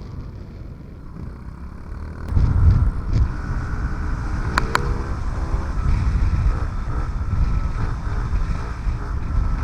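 Honda CRF50F's small single-cylinder four-stroke engine running while the bike is ridden, with wind buffeting the microphone; it gets louder about two seconds in. Two sharp clicks come close together near the middle.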